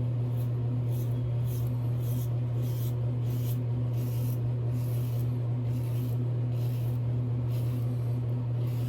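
Double-edge safety razor scraping through shave lather on the face in short strokes, about two a second, on the second pass. A steady low hum runs underneath.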